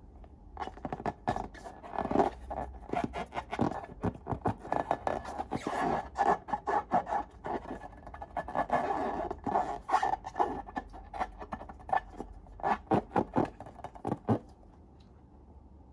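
Slime being worked and mixed, a dense run of crackling clicks and scrapes that stops about fourteen seconds in.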